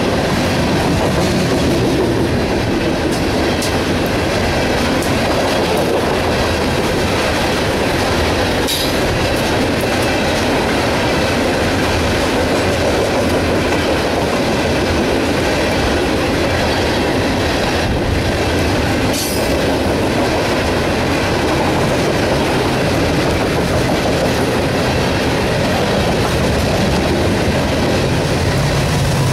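Loaded coal hopper cars of a freight train rolling past close by: a steady rumble and clatter of steel wheels on the rails. Two brief high squeals cut through, about a third and two-thirds of the way in.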